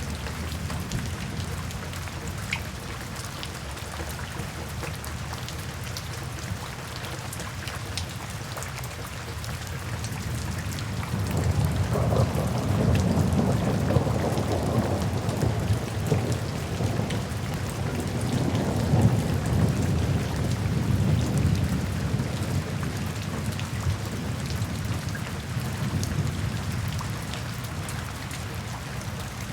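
Steady rain falling, with a long low roll of thunder that swells about a third of the way in and fades away over roughly ten seconds.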